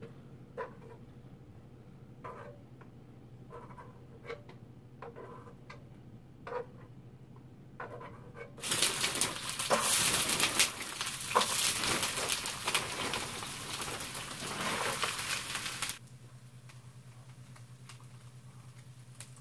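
A batch of food pieces frying in hot oil in a frying pan, sizzling and crackling loudly for about seven seconds from a little before halfway in, then cutting off suddenly. Before that, only a few light clicks of a utensil against the pan.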